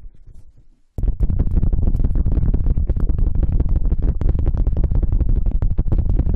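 Close-miked ASMR scratching and rubbing on the microphone: a dense crackle over a heavy low rumble. It dies away at the start, then resumes abruptly about a second in and carries on steadily.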